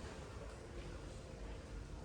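Steady room ambience of an airport lounge: a low hum and hiss of ventilation, with a faint steady tone and a few faint indistinct background sounds.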